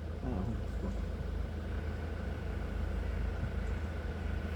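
A heavy engine running steadily, a low, even rumble that holds the same pitch and level, with a faint steady high tone above it.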